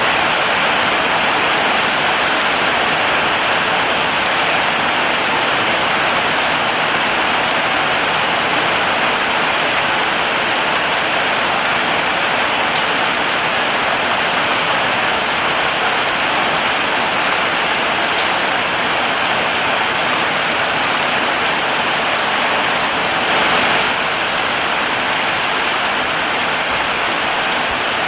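Heavy rain falling steadily, a dense even hiss, swelling slightly for a moment near the end.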